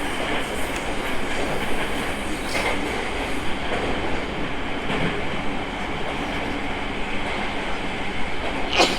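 Running noise of an E217 series electric train heard inside the car: a steady rolling rumble of wheels and traction motors with a faint steady whine. There are two brief sharp clicks, the louder one near the end.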